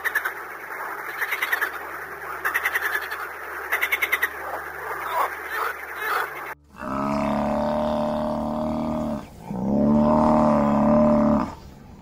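Frogs croaking in a chorus, with louder pulsed croaks about every second and a half. The chorus cuts off about six and a half seconds in, and two long, low mooing calls from a water buffalo follow, each about two seconds long.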